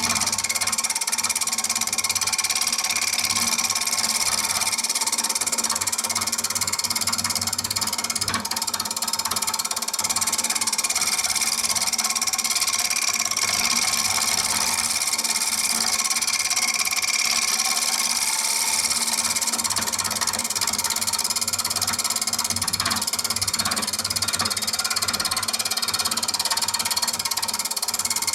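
Wood lathe running with a scraper cutting across the top face of a spinning mesquite bowl blank: a steady high hiss over the lathe's steady hum.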